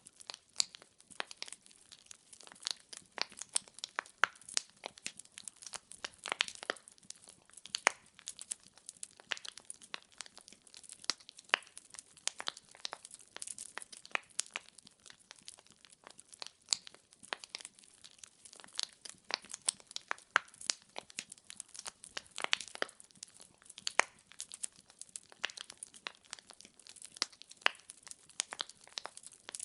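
Wood fire burning in a fireplace: logs crackling and popping in a dense, irregular stream of sharp snaps over a faint hiss.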